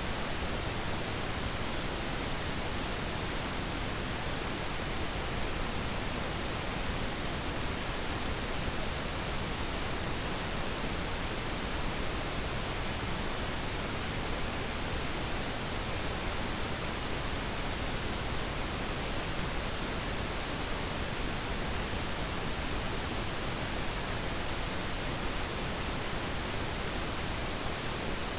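Steady pink noise: an even, unchanging hiss with no other sound.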